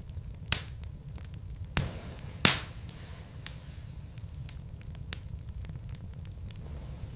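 Wood fire burning in a fireplace, with a steady low rumble and sharp pops and crackles from the burning logs; three louder pops stand out, about half a second, two seconds and two and a half seconds in.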